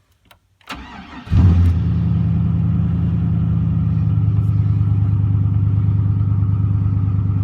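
2000 Chevy Silverado engine cold-starting through a cut-out Y-pipe and dual glasspack mufflers. The starter cranks briefly, the engine catches about a second and a half in with a quick flare, then settles into a steady, low idle.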